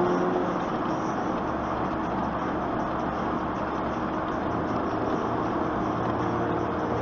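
Steady road and engine noise inside a truck's cabin while driving: an even rush with a low hum underneath.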